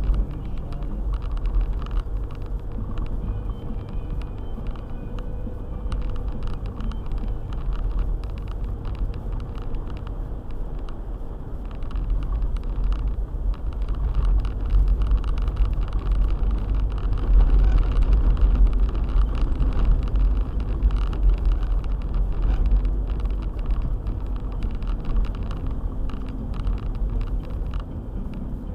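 A car driving along, a steady low rumble of engine and tyre noise that swells a little midway through.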